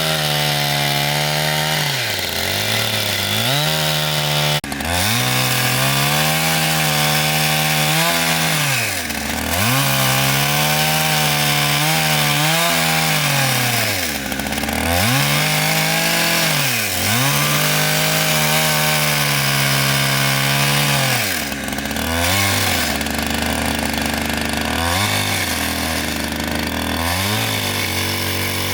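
Two-stroke chainsaw cutting through wood. The engine pitch sags under load and climbs back again and again. For the last several seconds it drops to a lower, steadier run with a few brief throttle blips.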